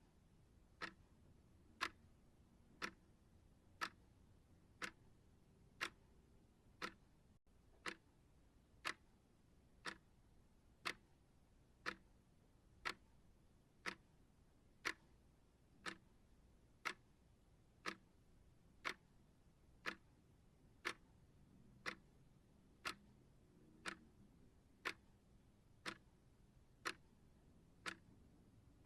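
Steady clock ticking, one sharp tick a second, with no other sound.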